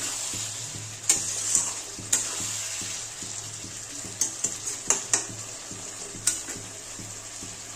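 Prawn, potato and pointed-gourd curry sizzling in oil in a steel kadai as a spatula stirs it, with a handful of sharp clinks of the spatula against the pan. The masala is being fried down before water goes in.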